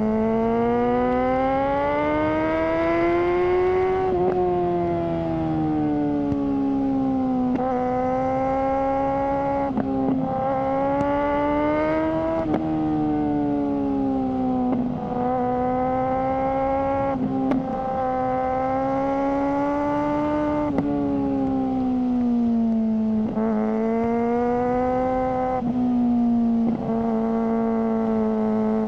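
Suzuki GSR600's inline-four engine running through a GPR Ghost aftermarket exhaust at moderate, changing revs. The pitch climbs and eases slowly over several seconds, with brief breaks in the note every few seconds.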